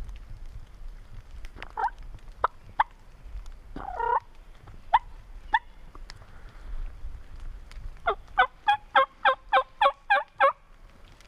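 Turkey yelping: a few single yelps spaced out, then a fast run of about ten yelps, roughly four a second, near the end.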